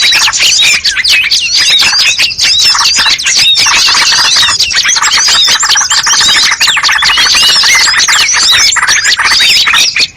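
Dense, loud chorus of many small songbirds chirping and calling rapidly over one another without a break: a bird-lure ('pikat') recording of mixed calls meant to draw in birds such as bulbuls and prinias.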